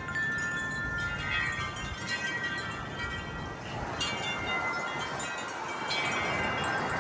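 Wind chimes ringing in a gust, many overlapping metallic tones struck again and again, over the rush of wind.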